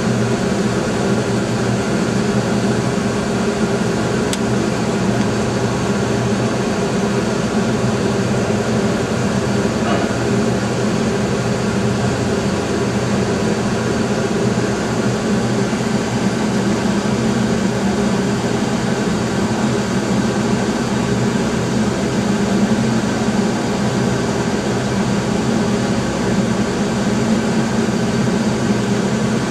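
GM 3.1 V6 engine idling with a steady, even hum.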